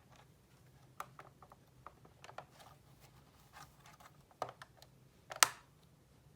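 Irregular light clicks and taps of small parts of a model car being handled, with one louder sharp click about five and a half seconds in.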